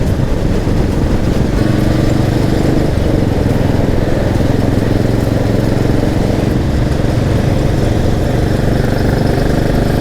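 Motorcycle engine running steadily at cruising speed while riding, with wind and road noise.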